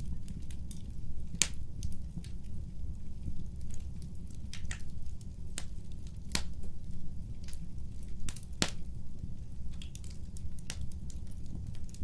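Wood fire burning with a steady low rumble and irregular crackling, its sharp pops of burning wood coming every second or so, three of them louder than the rest.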